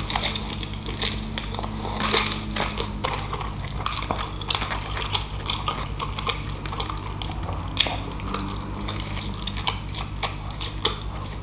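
Close-miked eating of crispy fried chicken: biting and chewing, with many small crunches and crackles of the breading and wet mouth sounds. A low steady hum lies underneath.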